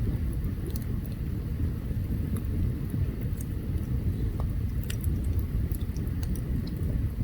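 Open campfire crackling, with scattered small sharp pops, over a steady low rumble.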